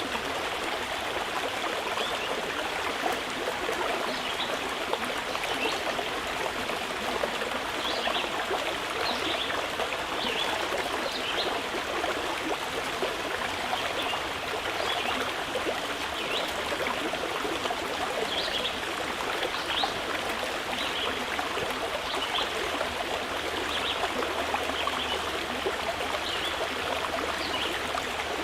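Mountain river flowing with a steady rush of water, with short high bird chirps scattered over it every second or two.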